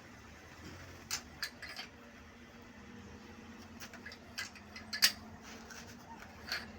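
A few scattered light clicks and taps of tools or engine parts being handled, spread over several seconds, over a faint steady hum.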